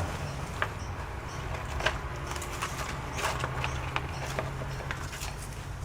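Scattered light clicks and taps from small laptop parts being handled during a repair, over a steady low hum.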